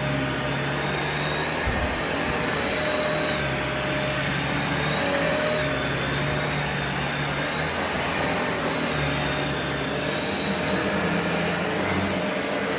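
Sebo Dart upright vacuum cleaner running steadily while vacuuming, its high motor whine wavering slightly in pitch.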